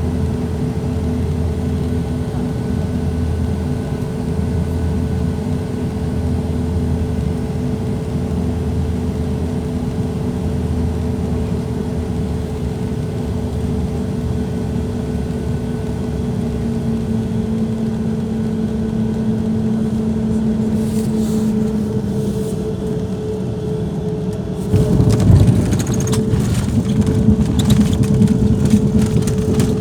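Airliner cabin noise during landing: a steady engine drone with a pulsing low hum and a held whine. About 25 s in it turns suddenly into a louder rumbling and rattling as the wheels touch down and roll on the runway.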